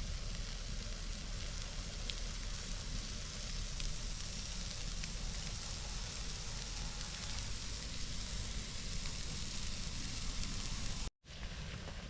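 Burgers sizzling as they cook, a steady hiss with a few faint ticks. The sound cuts out abruptly about eleven seconds in.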